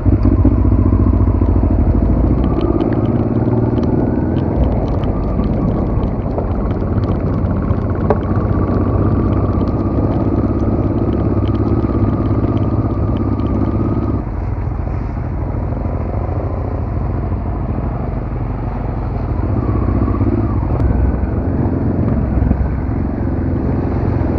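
Dual-sport motorcycle engine running while riding an off-road trail, with a steady engine note. The engine eases off a little over halfway through and picks up again near the end.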